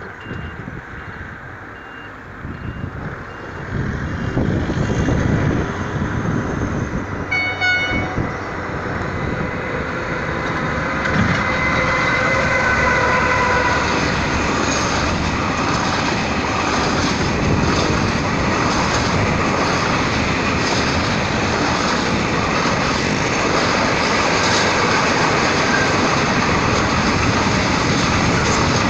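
A train running past close by, its rumble building over the first few seconds and then staying loud and steady; a short horn blast sounds about seven seconds in.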